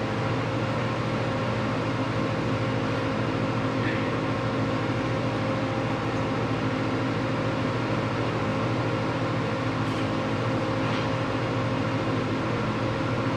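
Steady hum and whir of running shop machinery, even throughout, with no welding crackle or impacts.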